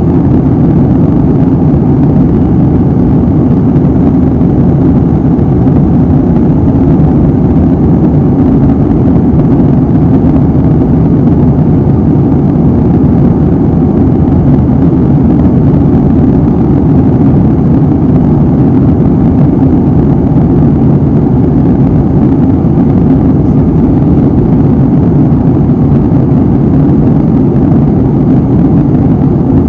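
Steady, loud drone of a jet airliner in flight, heard inside the passenger cabin: engine and airflow noise, deep and unchanging.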